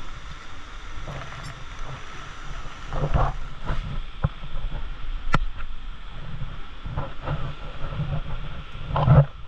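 Steady rush of a nearby waterfall, with wind buffeting the microphone and several sharp knocks and clanks from climbing on chains and rock, the loudest just before the end.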